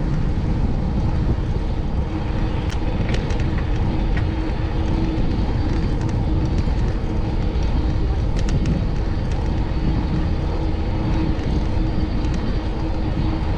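Steady wind and road rumble from riding a bicycle through city traffic, with the sound of motor vehicles running alongside and a few faint clicks.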